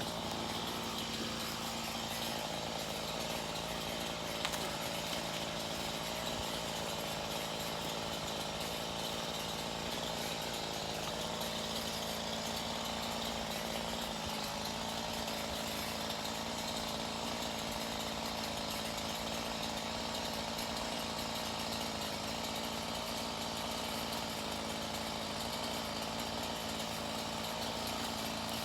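Chainsaw running steadily without a break, cutting into the trunk of a small pine tree.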